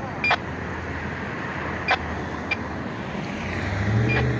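Diesel truck engine idling steadily, with three or four short, sharp clicks. Near the end a deeper engine note swells louder.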